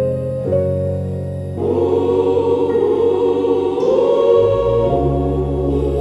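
Gospel music: sustained keyboard chords, joined about a second and a half in by a choir singing held, wordless chords.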